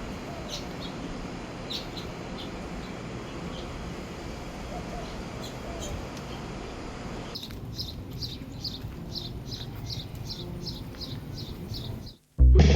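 Small bird chirping over steady outdoor background noise. About seven seconds in, the background drops away and a bird repeats a short, high chirp about three times a second.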